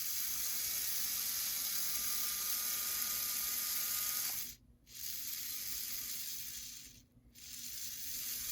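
Small electric motor and gear drive of a 1980s Bachmann HO-scale E60CP model locomotive running on the bench with a steady whirring hiss, working again after repair. It cuts out briefly twice, about four and a half and seven seconds in.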